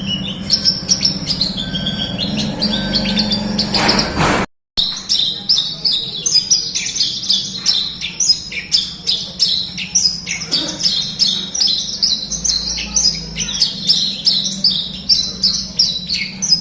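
Javan bush lark (branjangan) singing a fast, continuous twittering song of high chirps. About four and a half seconds in, a brief cut to silence splices the recording, and the song continues as a rapid run of chirps at about three to four a second, over a steady low hum.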